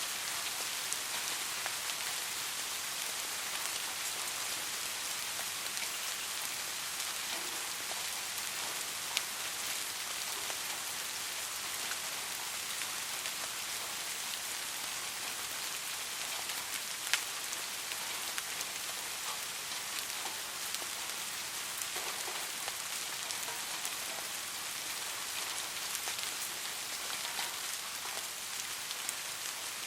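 Soft rain falling steadily: an even hiss with scattered drops ticking, two of them sharper and louder, about nine and seventeen seconds in.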